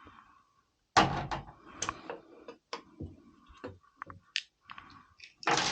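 Scattered knocks and clicks of washing-machine parts and tools being handled during disassembly. A sharp knock comes about a second in, and a short, louder rasping burst comes near the end.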